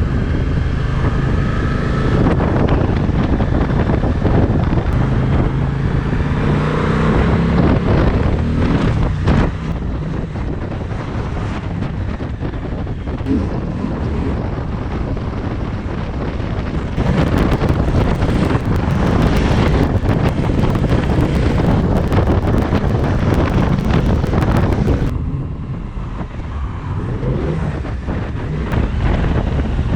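Suzuki V-Strom 1050XT's V-twin engine pulling away with rising revs, then heavy wind rushing and buffeting over the microphone while riding. The wind is loudest over the middle stretch and eases abruptly near the end.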